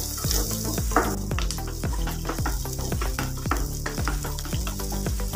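Chopped onion and garlic with dried red chillies sizzling in hot oil in a non-stick kadai, a wooden spatula stirring and scraping them around, over soft background music.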